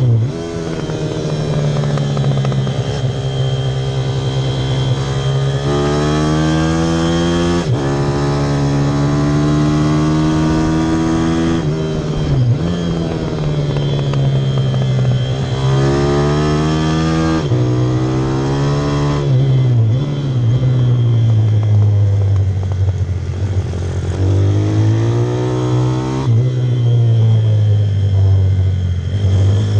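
Pit bike engine running hard, its revs climbing under throttle for a few seconds at a time, then dropping back before climbing again, several times over.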